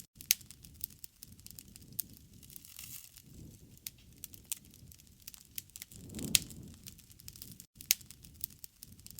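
Wood fire crackling, with sharp pops and snaps scattered irregularly over a low rushing of the flames. The loudest pops come just after the start and a little past the middle, and the sound cuts out for an instant shortly before the end.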